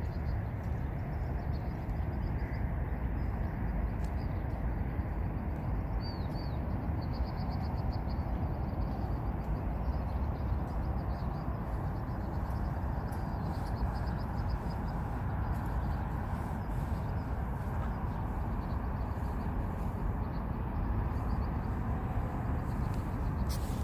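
Steady low rumble of outdoor background noise with faint, high bird chirps repeating through it.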